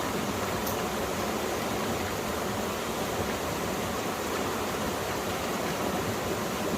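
Mountain stream water rushing and splashing over rocks in a steady, even flow.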